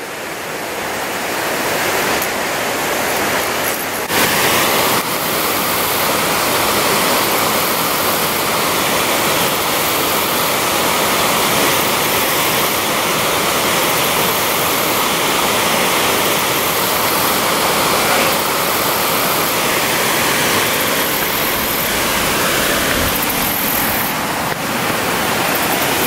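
Water pouring over a low concrete dam spillway: a steady, loud rush of falling white water that fades in over the first couple of seconds.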